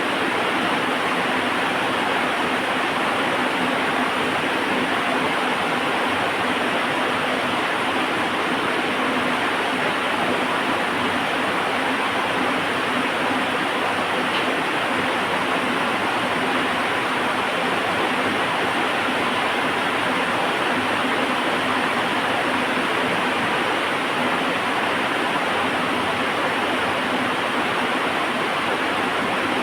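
Heavy rain falling steadily, a dense even hiss without let-up.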